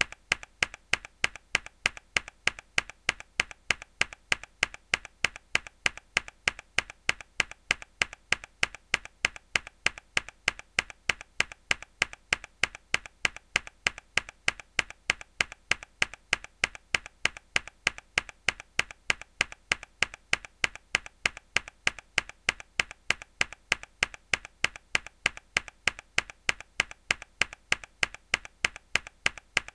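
A single hard key press on a mechanical keyboard, repeated in a steady loop about twice a second. Each press gives a sharp clack followed by a softer click as the key returns.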